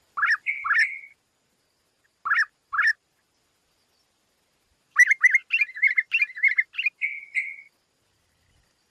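A songbird calling: two short rising chirps run into a brief trill, and this pattern comes twice. About five seconds in, a longer phrase of quick, varied bubbling notes follows. There is no background sound between the calls.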